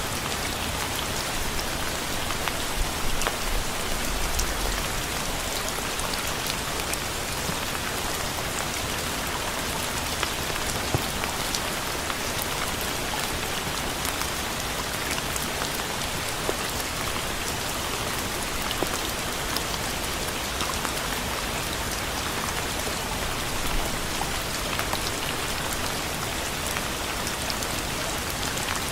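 Steady rain falling and pattering on a surface, a dense even hiss of drops with scattered sharper drop ticks.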